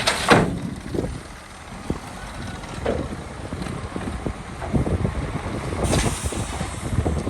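Heavy diesel construction machinery running with a steady low rumble, with several sharp knocks and a short hiss about six seconds in.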